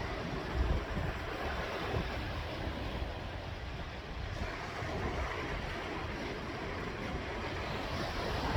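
Sea waves washing in steadily, with wind buffeting the microphone in low gusts.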